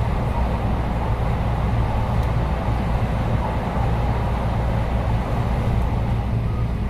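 Running noise of a JR West 223 series 6000 electric train heard from inside the car: a steady low rumble of wheels and running gear at speed as it crosses a steel truss bridge.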